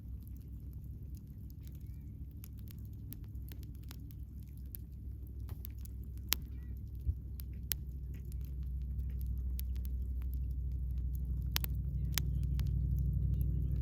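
Wood campfire crackling, with many small sharp pops at irregular intervals over a steady low rumble that grows louder about two-thirds of the way through.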